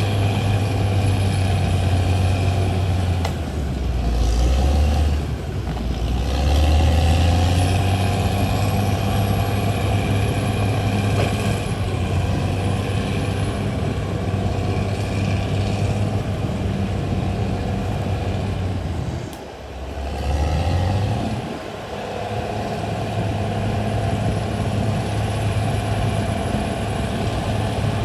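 Diesel engine of a CAT D6R XL crawler bulldozer running hard and steadily. Its revs sag and recover twice, first a few seconds in and again about two-thirds of the way through.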